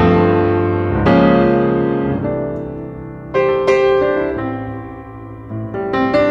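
Piano music, slow chords struck every second or two and left to ring and fade.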